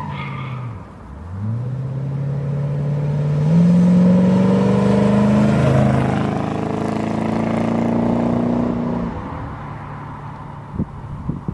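A car engine accelerating: its note dips about a second in, climbs, steps up higher, holds, then fades away after about nine seconds. A few clattering knocks come near the end.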